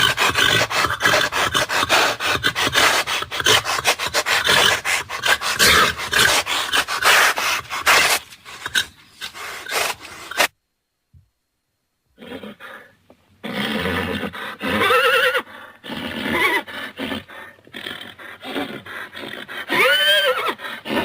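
Horse sounds from two separate recordings. First comes about ten seconds of rough, noisy sound full of rapid crackles, which cuts off abruptly. Then, after a short silence, a string of pitched calls ends in a whinny that rises and falls near the end.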